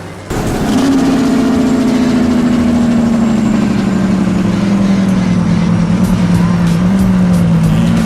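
Truck engine running loud, its note falling slowly and steadily as the engine winds down in revs.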